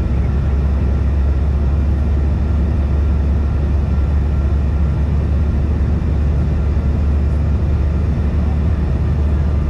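Steady cabin drone of a CRJ-550 regional jet in flight: an even, deep rumble of airflow and its two rear-mounted GE CF34 turbofans, with a faint steady whine above it.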